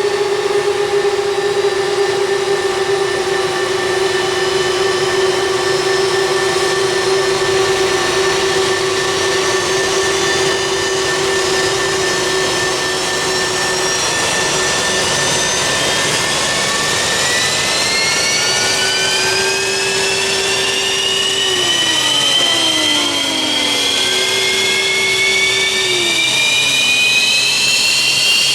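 F-15J's Pratt & Whitney F100 turbofan starting up. A steady high whine runs through the first half, then from about halfway several whines rise steadily in pitch as the engine spools up, with a few short falling tones near the end.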